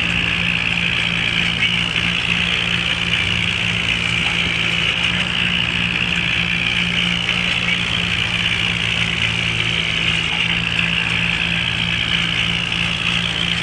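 Tractor engine running steadily under load while driving a rotavator through a flooded field, with a constant low hum and a steady higher churning hiss.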